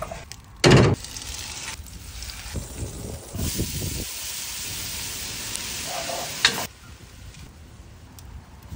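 Hot charcoal dumped into a grill, a short loud crash about a second in. Later, diced onion sizzles in hot fat in a cast-iron Dutch oven over the coals, a steady hiss for about three seconds that cuts off suddenly.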